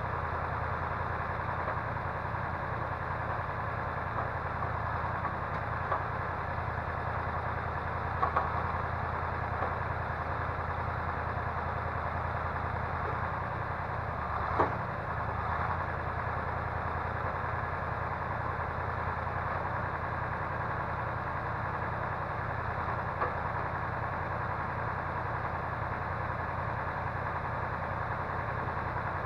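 Timber-loader truck's engine running steadily while the log crane works, with a few short knocks, the loudest about halfway through.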